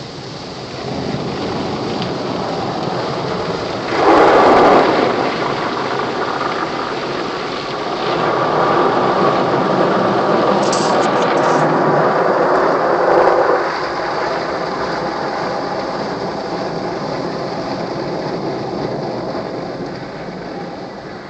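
Automatic car wash equipment working over a car, water spraying and washing onto the body, heard from inside the car. A short loud surge about four seconds in, a longer louder stretch from about eight to thirteen seconds, then it eases off near the end.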